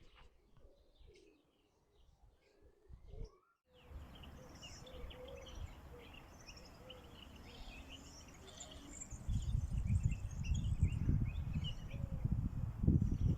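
Many birds chirping at once in a dense, overlapping chatter, starting abruptly a few seconds in after a quiet stretch, with a few low soft coo-like notes among them. Wind or handling rumble on the microphone comes in loudly about two-thirds of the way through.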